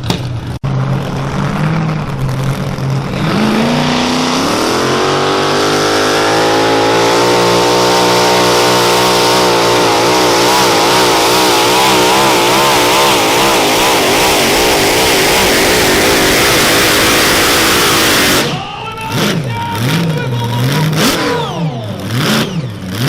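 Mini modified pulling tractor's engine revving up and running flat out at high revs through a pull, its pitch wavering, then shutting off abruptly.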